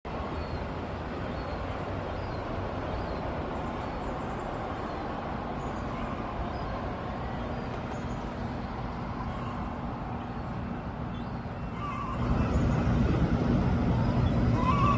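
Steady road traffic noise. From about twelve seconds in, a vehicle with a steady low engine hum grows louder and closer.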